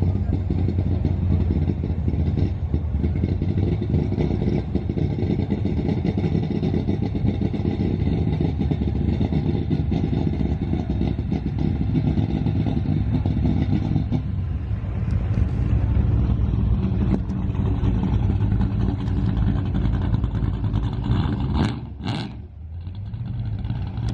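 Vehicle engines running with a steady low note; the engine sound changes about two-thirds of the way through and dips briefly near the end.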